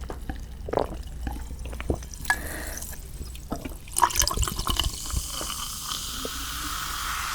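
Close-miked wet eating sounds of seasoned marinated raw shrimp: soft sticky clicks and squelches, then from about halfway a steady liquid hiss that grows louder toward the end.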